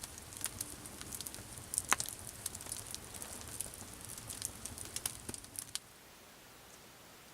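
Campfire crackling, with irregular sharp pops over a high hiss. The crackling cuts off suddenly about six seconds in, leaving a faint steady hiss.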